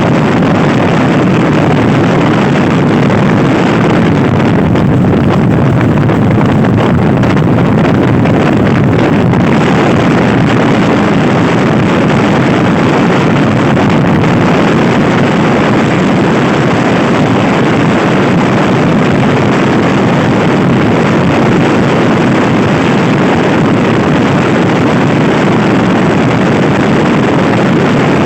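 Loud, steady wind rush buffeting the microphone as a Honda Scoopy-i scooter is ridden at speed, with the scooter's engine and road noise running under it.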